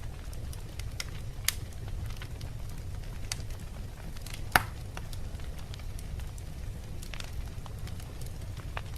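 Wood fire burning in a fireplace: a steady low rumble of flames with scattered crackles from the logs and two sharper pops, about one and a half seconds in and just after halfway.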